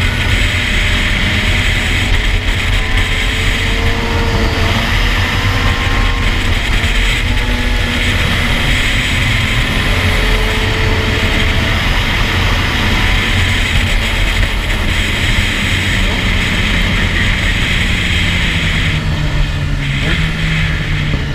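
A 2007 Suzuki GSX-R750's inline-four with an Akrapovic exhaust running under way, its pitch shifting up and down with the throttle, under steady wind rush. Heard muffled through a GoPro's waterproof case.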